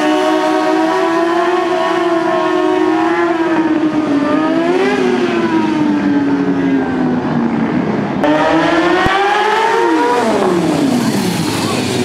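Sport motorcycle engines revving during wheelies: the pitch holds for a few seconds, rises and falls about five seconds in, then after a sudden jump about eight seconds in climbs steeply and drops away again.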